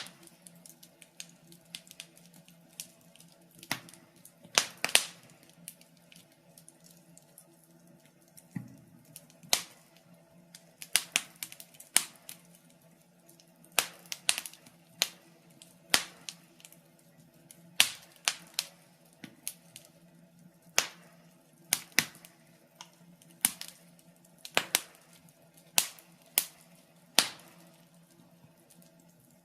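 Wood fire in an open fireplace crackling, with irregular sharp pops and snaps, a few of them louder than the rest.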